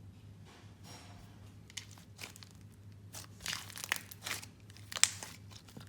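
Clay slime layered with jelly slime being squeezed and stretched by hand, giving irregular crinkly pops and clicks, loudest about five seconds in.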